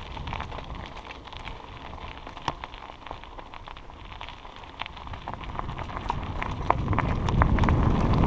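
Bicycle rolling along a dirt trail: a steady patter of small crackles and clicks from the tyres on the trail surface. Wind rumble on the microphone builds over the second half.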